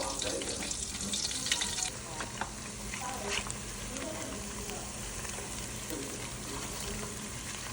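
Chicken wings sizzling in hot frying oil, a steady crackling hiss, busier with a few clicks in the first two seconds and then even.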